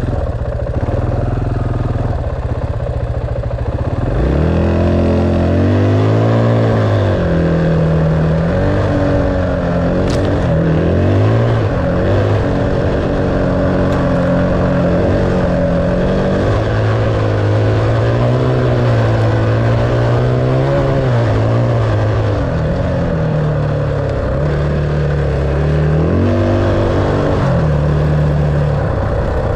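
Dirt bike engine under way, its revs climbing and falling repeatedly and holding steady between changes, with wind rushing.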